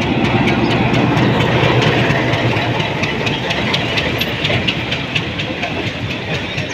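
Diesel locomotive passing close by, its engine loud in the first couple of seconds and fading as it goes. The wheels of the following cars clack over the rail joints in a quick, even rhythm.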